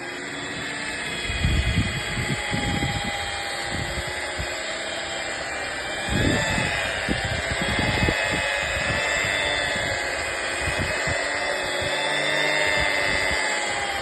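Electric car polisher running steadily with a motor whine, its green cutting pad buffing compound into the paintwork. The pad's contact adds irregular low rumbling that swells about a second and a half in and again around six seconds.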